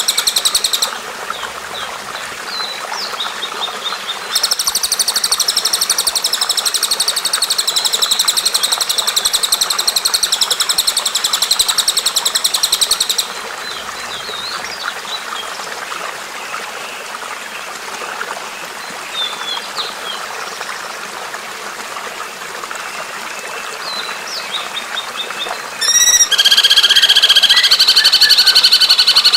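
Recorded songbird calls over a steady rush of running water. A fast, high, repeated trill fills most of the first half, then scattered short chirps follow. A loud, steady, high-pitched song cuts in abruptly near the end.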